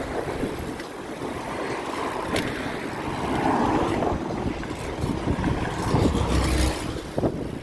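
Wind rushing over the microphone with road noise while riding a bicycle, swelling to a louder low rumble about six seconds in.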